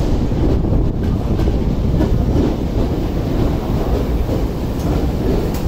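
Commuter train running past close alongside the platform: a steady, loud rumble of wheels on the rails.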